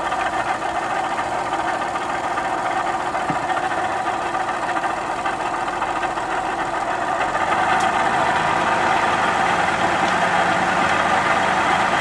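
Car engine idling with a steady abnormal noise from the engine bay, which the owner calls a bad sound and which is apparently coming from the alternator. The noise gets a little louder about eight seconds in.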